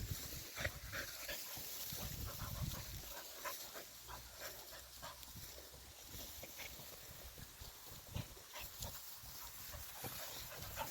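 Dogs sniffing and rustling through long grass as they search by scent, a scatter of short, irregular sniffs and rustles.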